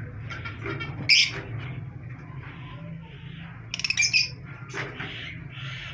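Small pet parrots giving short, sharp squawking calls: one about a second in and a quick run of them near four seconds. A steady low hum runs underneath.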